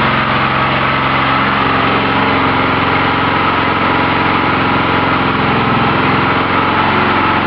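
Small 2.5 kW generator engine running steadily on charcoal gas from a gasifier under load, with a slight change in its note about a second and a half in. Its sound is taken as a sign that the gas-air mixture is off and needs adjusting.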